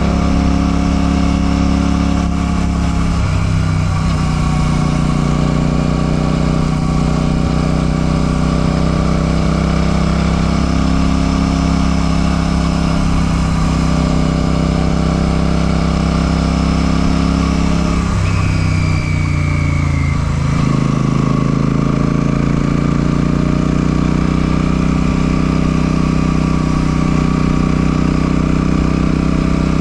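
Royal Enfield Classic 650's 648 cc parallel-twin engine running under way at a steady cruise. Its note drops about three seconds in and again around eighteen to twenty seconds, then climbs back as it pulls.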